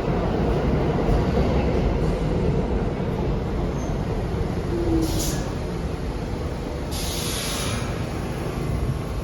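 New York City subway train running through the station with a steady low rumble that eases off slightly. Two short hisses come about five seconds in and again about seven to eight seconds in.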